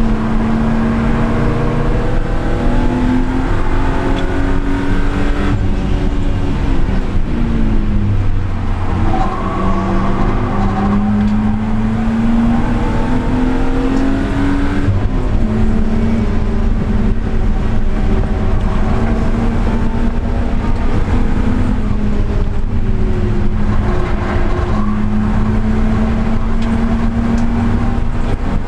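Car engine and exhaust driven hard on track, the pitch climbing under acceleration and dropping sharply at several gear changes or lifts.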